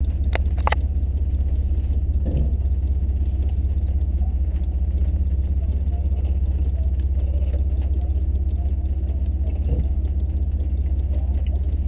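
Chevrolet S-10 Blazer's engine running steadily at idle or crawling speed off road, heard from inside the cab as an even low rumble, with a few light clicks and knocks from the cab.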